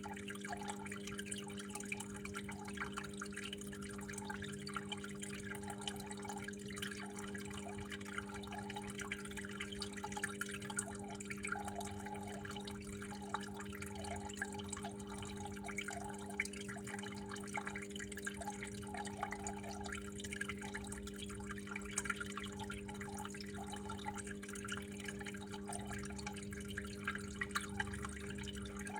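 Water flowing and dripping steadily, a continuous trickle with many small drips, over a steady low hum.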